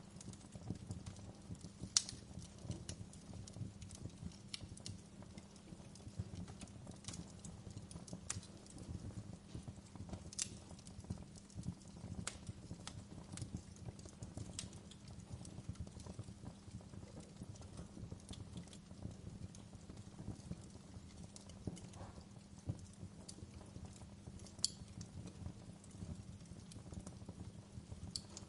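Wood fire crackling in a fireplace: irregular sharp snaps and pops over a steady low rumble of the flames, with a few louder pops standing out.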